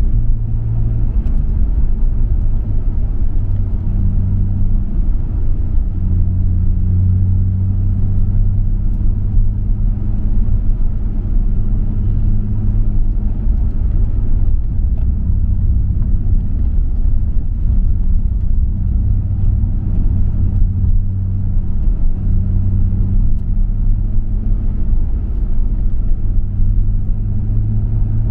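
Nissan Skyline R34 GT-R's RB26DETT twin-turbo straight-six with a MINES aftermarket exhaust, running at steady moderate revs on the move: a continuous low drone whose pitch shifts a little a few times, with road noise underneath.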